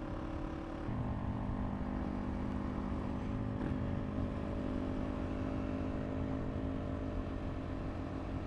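Single-cylinder engine of a KTM RC390 motorcycle running at a steady cruising speed under wind noise, with a step up in level and pitch about a second in.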